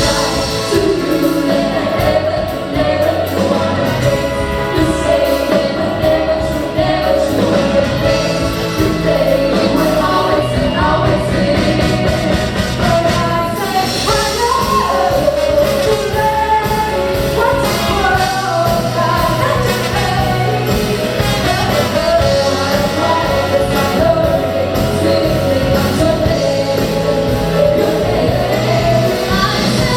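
Live band with vocalists performing a pop-rock song: sung melody over bass, drums and keyboards.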